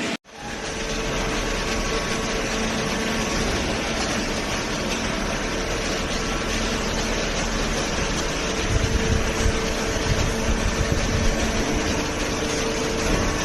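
Hydraulic cardboard baler running: a steady hum from its pump and motor, with an uneven low rumble setting in about two thirds of the way through.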